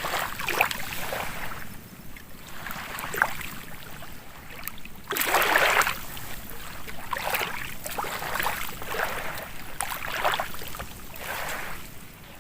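Water splashing and washing in irregular surges, about one every second or two, the loudest about five and a half seconds in.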